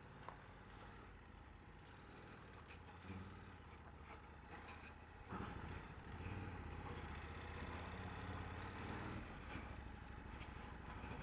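Motorcycle engine running faintly at low speed, a steady low hum that grows a little louder about five seconds in.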